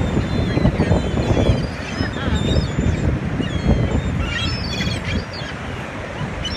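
A flock of seagulls calling over one another, many short gliding cries, with a cluster of loud calls about two-thirds of the way through. Wind buffets the microphone throughout.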